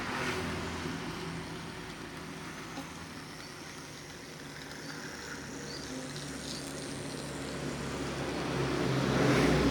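A low, steady engine hum that grows louder near the end.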